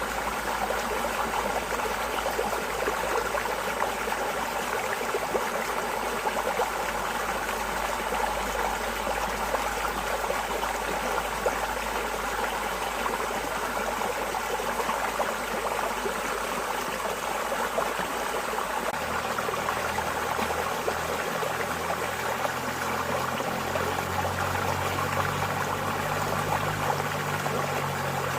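Flowing water running steadily, an even, continuous rush and trickle of a stream. A faint low rumble joins in about two-thirds of the way through.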